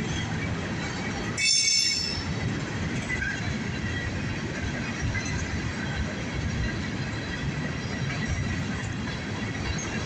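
Empty coal hopper cars of a CSX freight train rolling past with a steady rumble, and a short, loud, high-pitched wheel squeal about one and a half seconds in.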